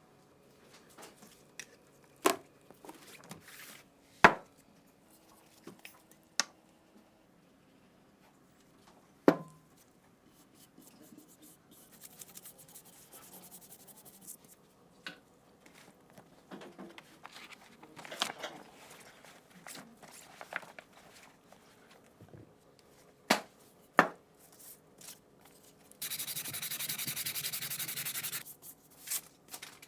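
Hand work on gun parts: several sharp knocks and clicks of metal parts being handled and set down, with soft rubbing and scraping between them. A steady hiss lasts about two and a half seconds near the end.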